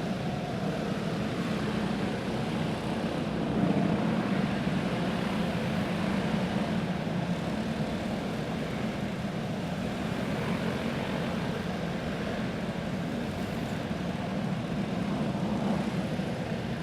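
A pack of Pro Clone 360 dirt-track racing karts, their single-cylinder four-stroke clone engines running together in a steady, unbroken drone as the field circulates slowly under a caution flag.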